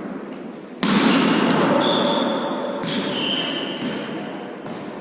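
A volleyball struck or bouncing on an indoor court, with one sharp hit a little under a second in, followed by echoing hall noise that fades slowly and a few short high squeaks.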